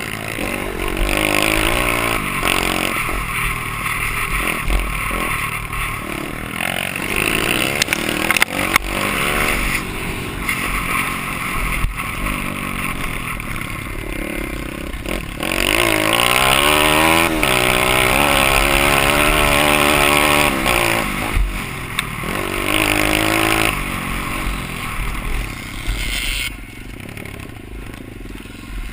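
Dirt bike engine being ridden around a motocross track, revs climbing and falling again and again through throttle and gear changes, with a rushing hiss of wind and noise over it. It gets louder about halfway through and drops away near the end.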